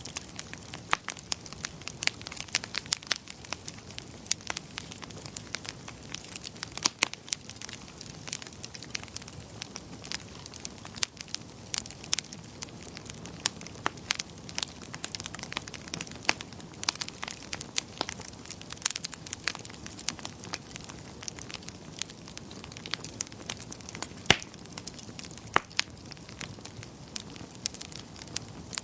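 Wood fire crackling in a fireplace: a steady low hiss of burning with frequent sharp snaps and pops scattered irregularly, and one louder pop late on.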